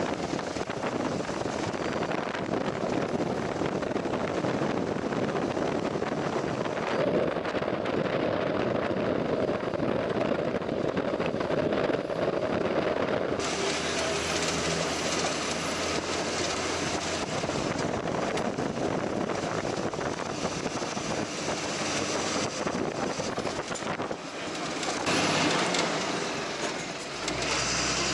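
Steady rumble and rushing noise of a moving vehicle. An abrupt change about 13 seconds in gives way to a lower engine hum.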